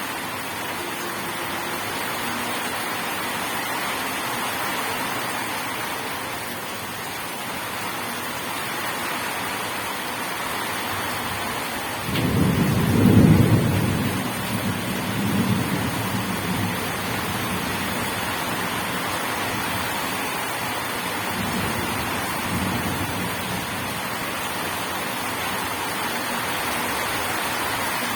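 Steady heavy rain with a thunderclap about twelve seconds in: a sudden low rumble that peaks within a second or so, then rolls on in weaker waves for several seconds before the rain alone continues.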